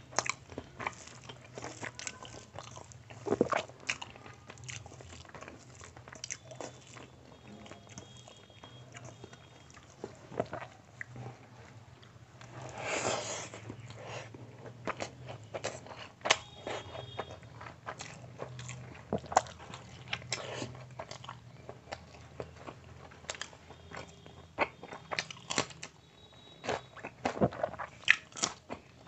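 Close-miked eating: a person chewing handfuls of rice with mutton and chicken curry, eaten by hand, with many sharp wet mouth clicks and chews. There is a longer hissing noise about 13 seconds in.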